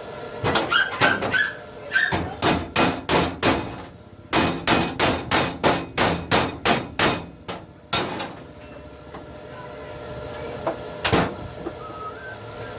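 Hammer blows in quick runs of about three strikes a second, with a short break about four seconds in and one last single blow near the end.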